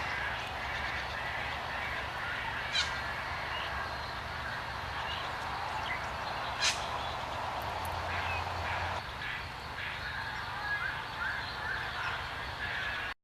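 Birds calling, with squawking, honk-like calls over a steady outdoor hiss. Two sharp clicks stand out, and the sound cuts off suddenly at the very end.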